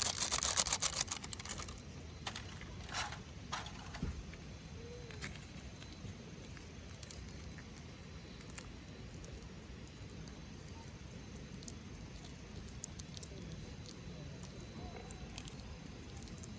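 Hardwood campfire crackling, with sharp scattered pops over a low steady background. A dense burst of crinkly rustling fills the first two seconds.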